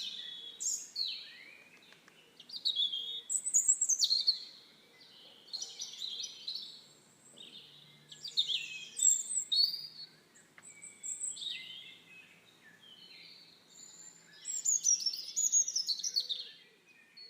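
Songbirds singing: a series of quick, warbling and trilling phrases, one every second or two, with sweeps falling in pitch, over a faint steady background hum.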